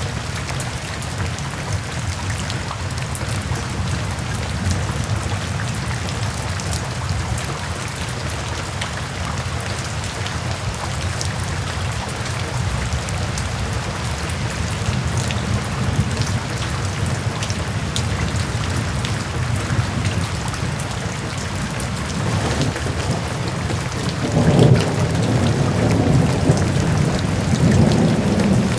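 Steady heavy rain with scattered drop ticks, over a low rumble. About three-quarters of the way through, a louder rolling rumble of thunder swells in.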